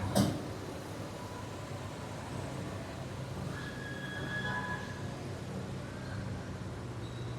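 A vehicle engine idling steadily as a low, even hum, with a brief knock right at the start.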